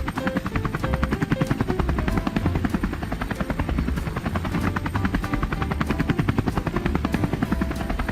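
Helicopter rotor sound effect: a steady, fast chopping of the blades, with light background music and short melody notes over it.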